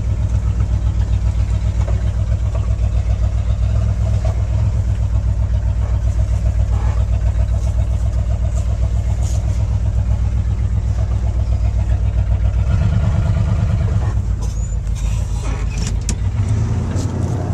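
Ford truck's engine running steadily under load as it drags a tree. The engine note shifts about thirteen seconds in, and a few sharp knocks come near the end.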